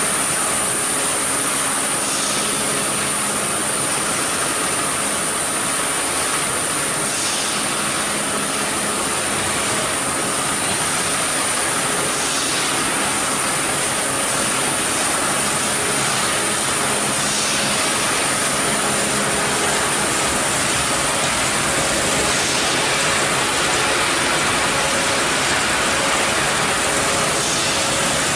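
Steady, loud machinery noise with a constant high-pitched whine, and a faint hiss recurring about every five seconds.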